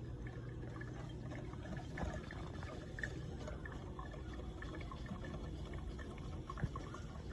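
Cuisinart Barista Bar coffee maker brewing, with liquid trickling and gurgling into a cup over a steady low hum.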